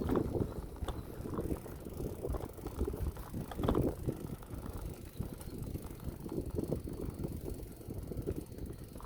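Bicycle being ridden: wind buffeting the microphone, with irregular rattles and clicks from the bike over the road surface.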